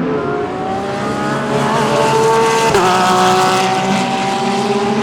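GT3 race car engine accelerating hard, its pitch rising, with an upshift about three seconds in before it climbs again.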